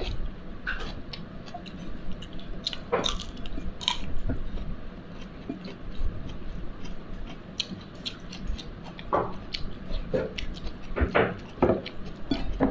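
A person chewing a mouthful of rice and chicken, with irregular small mouth clicks and smacks, while fingers mix the rice on the plate.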